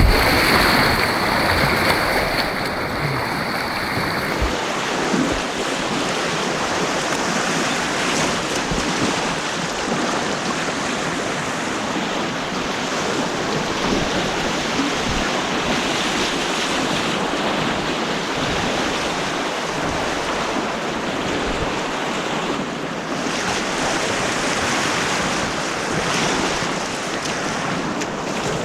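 Steady rush of white water on an artificial whitewater slalom course.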